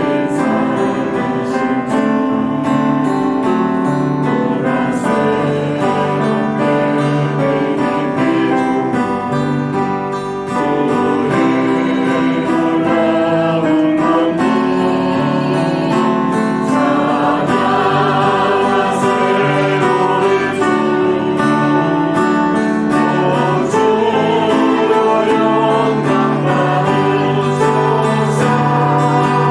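Church praise team performing a worship song: singing voices over acoustic guitar and other instruments, with a short dip in level about ten seconds in.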